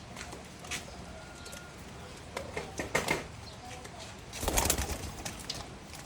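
Pigeons cooing in a loft at feeding time, with scattered pecking and scuffling clicks and one loud rustling burst a little past halfway.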